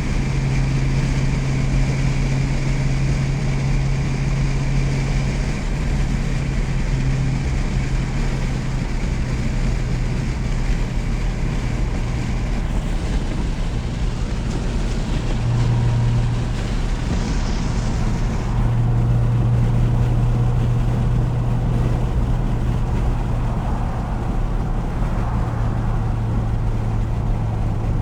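Car engine and aftermarket exhaust droning at a steady cruise, heard from inside the cabin over road and wind noise; the low hum shifts slightly in pitch a few times but never rises into a rev.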